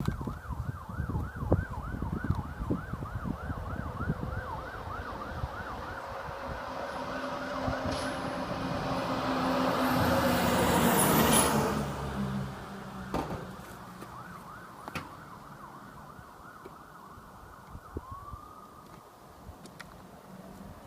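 An emergency vehicle's siren in a fast yelp, rising and falling about three times a second. A heavy emergency vehicle then drives past, its engine loudest around eleven seconds in before fading. Near the end a single short rising siren whoop sounds.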